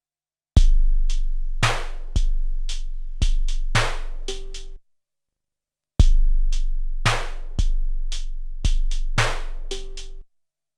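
12-bit SP-1200 sampler playing a sampled drum beat. The same pattern plays twice, each pass about four seconds long, with a second of dead silence between them.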